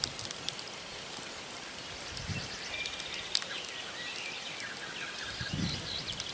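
Wood campfire crackling, with scattered sharp pops of burning logs and one louder pop about three seconds in. Small birds call faintly in the background.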